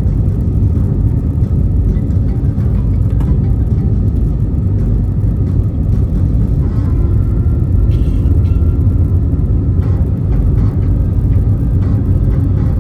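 Cabin noise of an Airbus A320neo on take-off, its CFM LEAP-1A engines at high power: a loud, steady, deep rumble, with a faint steady whine joining about seven seconds in.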